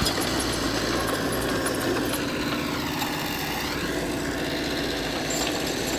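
Diesel engine of heavy earthmoving machinery running steadily. Around the middle, a higher whine dips in pitch and comes back up.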